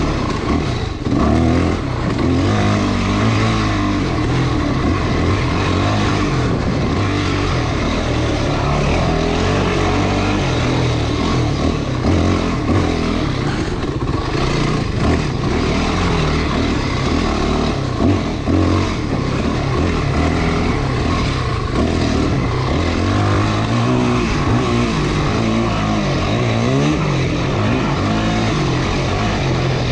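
Trail motorcycle engine running while riding, its revs rising and falling again and again.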